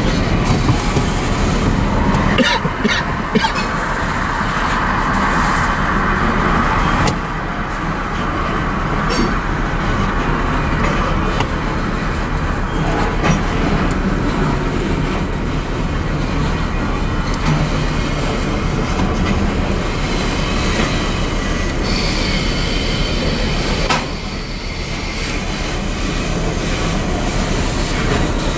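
Freight train of covered hopper cars rolling past at a grade crossing: a steady rumble of wheels on rail with scattered clacks. Near the end, a high wheel squeal for a couple of seconds.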